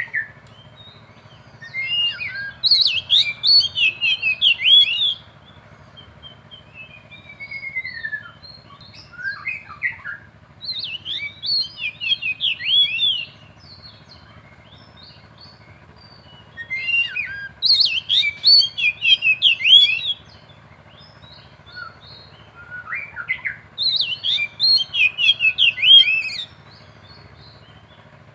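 An oriental magpie-robin (kacer) and a white-rumped shama (murai batu) countersinging: bouts of loud, fast, varied whistled song a few seconds long, about four of them, with scattered single notes and a sliding whistle in the pauses between.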